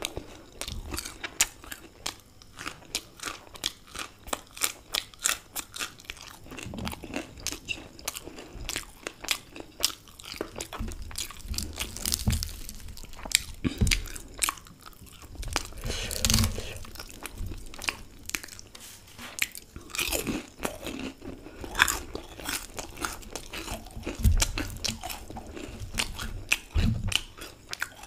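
Close-miked chewing and crunching of deep-fried samosa pastry: a dense run of sharp crackles with a few heavier bites.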